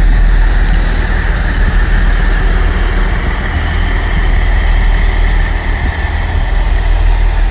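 Diesel engines of Class 158 diesel multiple units running steadily as the train creeps slowly along the platform, with a deep low rumble.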